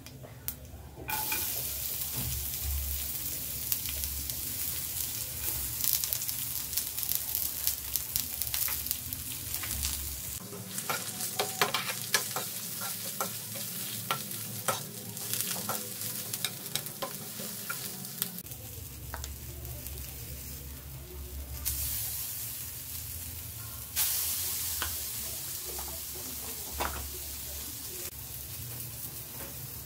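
Sliced onion, dried red chillies and whole spices sizzling as they fry in a nonstick pan. A metal spoon stirs them, clicking and scraping against the pan, with the clicks coming thickest in the middle.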